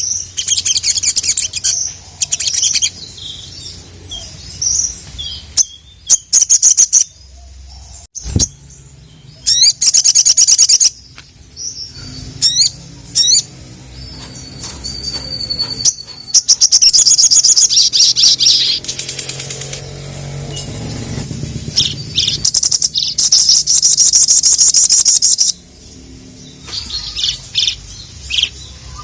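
A sogon (sogok ontong, a sunbird) singing in full song: fast, very high-pitched trills and chattering phrases in repeated bursts of one to several seconds with short pauses between them.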